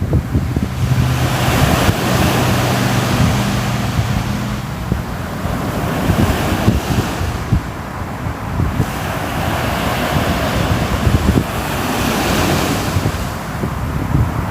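Ocean waves breaking and washing on the shore, swelling and ebbing in slow surges a few seconds apart, with wind rumbling on the microphone. A faint low steady hum runs under the first few seconds.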